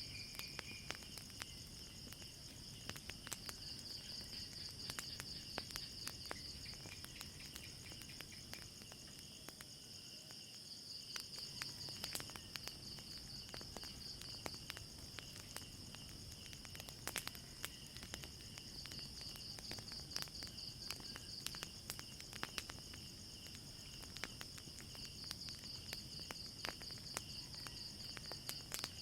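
Crickets chirping in a steady, pulsing high chorus, with a fire crackling and popping in frequent sharp, irregular clicks.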